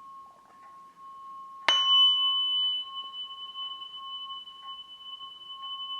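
Struck metal sound-healing instrument ringing with a steady, pure high tone. About a second and a half in a sharp strike sets off a second, brighter and higher tone that rings on, slowly fading, alongside the first.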